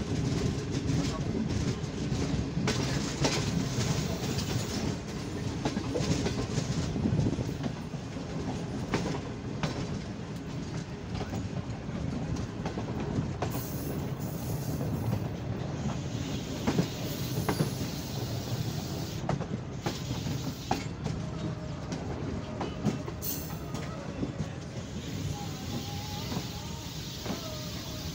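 Passenger train coaches running on the rails, heard from an open door: a steady rumble with wind and wheels clattering over rail joints in irregular clicks.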